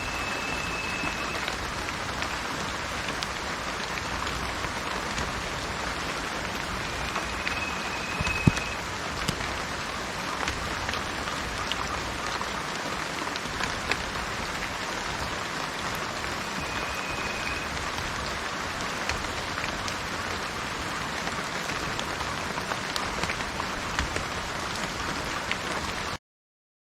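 Steady rain falling on a garden and trees: an even hiss with many small drop clicks. A short, high, steady whistle-like tone is heard three times, at the start, about 7 seconds in and about 16 seconds in. The sound cuts off abruptly shortly before the end.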